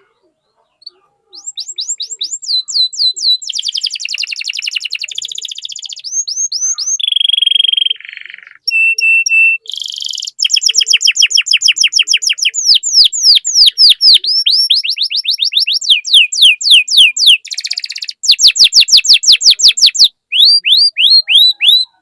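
Domestic canary singing loudly and continuously. The song is a series of rapid trilled phrases: runs of quick downward-sweeping notes, buzzy rolls and a few held whistled notes, with short breaks between phrases.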